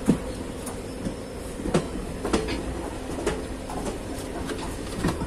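Passenger train running along the track: a steady low rumble with a faint hum, broken by a handful of sharp, irregularly spaced knocks from the wheels on the rails.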